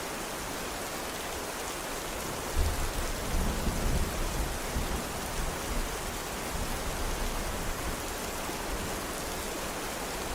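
Steady heavy rain falling. About two and a half seconds in, a low rumble of thunder starts suddenly and dies away over the next few seconds.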